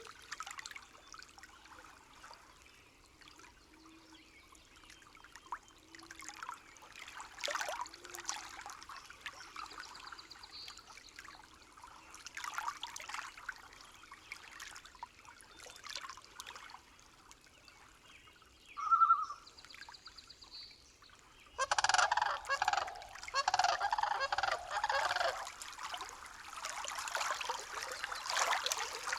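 Outdoor nature recording. It is mostly quiet, with scattered faint clicks and faint low calls. A short, loud high note comes about two-thirds of the way through. A louder, busy stretch of bird-like calls follows soon after. Running water comes in near the end.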